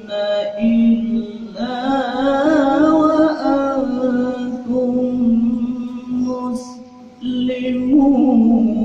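A man reciting the Quran melodically in tilawah style, holding long notes with wavering ornaments, with a brief breath pause about seven seconds in.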